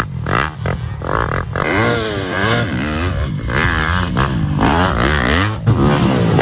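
Yamaha YZ250F single-cylinder four-stroke motocross bike engine revving up and down repeatedly as it is ridden, with quick on-off throttle blips in the first second and a half.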